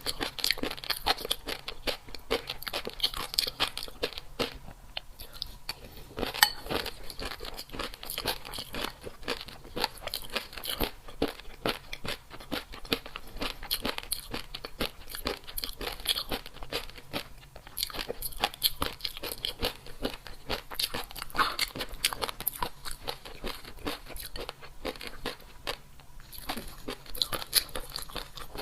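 Close-miked crunchy chewing: a person biting and chewing crisp food in a rapid, irregular crackle of crunches.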